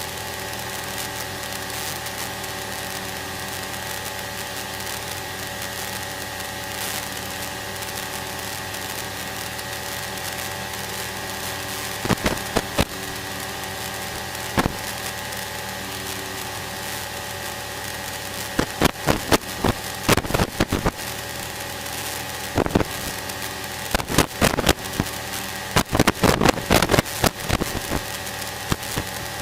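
Steady drone of a light aircraft's piston engine and propeller, heard inside the cabin in flight. Sharp crackling clicks break in about twelve seconds in and come in repeated clusters over the last ten seconds.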